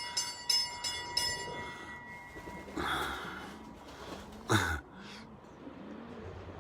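Ice-cream van's chime jingle playing over a loudspeaker, a quick run of ringing notes and a held tone that fade out in the first two seconds. Pigeons coo softly through the rest, with one brief loud sound about halfway through.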